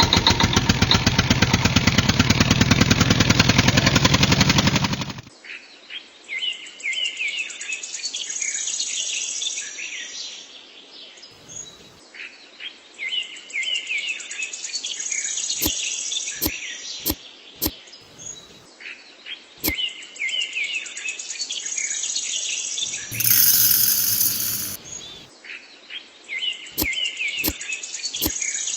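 A loud mechanical drone with a fast, even pulse, like a small motor, runs for about five seconds and cuts off abruptly. Birds then chirp in short recurring groups, with scattered sharp clicks and a brief loud rushing burst a little past the middle.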